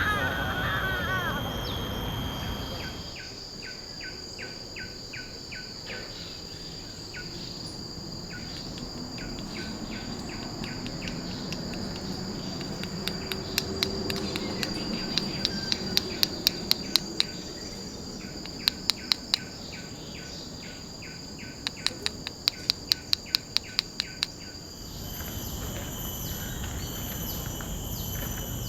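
Forest ambience of insects buzzing and trilling in steady high tones with quick pulsed calls, and a warbling bird call right at the start. Between about 13 and 24 seconds come several quick runs of sharp clicks.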